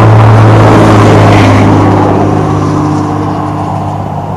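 A motor vehicle's engine running close by with a steady low drone, fading steadily from about halfway through as it moves away.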